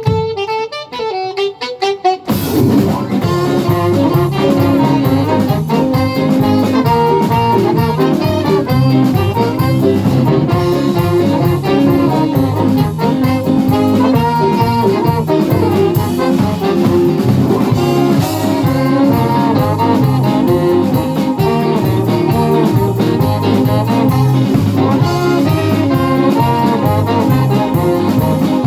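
A live band playing an original pop song. Quiet, sparse notes open it, and the full band comes in loudly about two seconds in.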